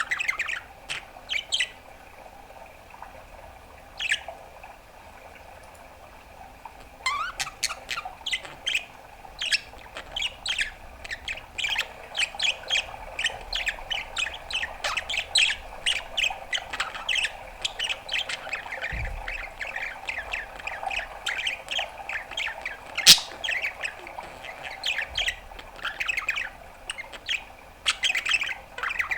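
Budgerigar chattering: a few separate chirps at first, then from about seven seconds in a fast, continuous warble of short chirps and squawks. A single sharp click cuts through about three-quarters of the way in.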